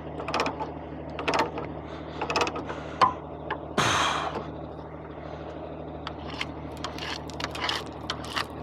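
Truck cab rattling and clicking over a steady low engine drone, with a sharp knock about three seconds in and a short hiss about a second later.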